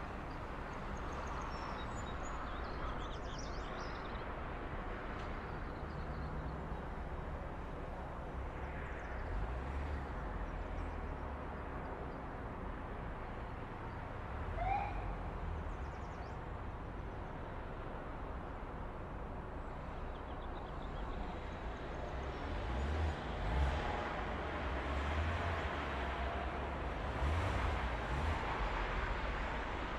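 Ambient soundscape: a steady hum of background noise with a few short bird calls, and a low traffic rumble that swells in the second half.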